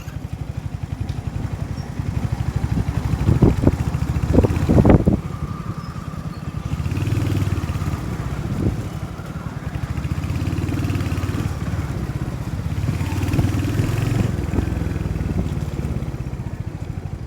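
Motorcycle engine running while riding, a steady low pulsing. A few loud knocks come about three to five seconds in.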